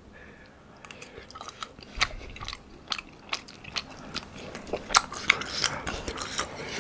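Close-up eating sounds of spicy tteokbokki being chewed: a run of quick wet mouth clicks and smacks that starts about a second in and gets busier near the end.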